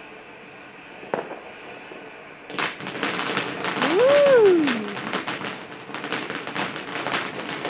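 Fireworks going off: about two and a half seconds in, a dense, rapid crackling starts suddenly and keeps going, with a single whistle that rises and then falls in the middle of it.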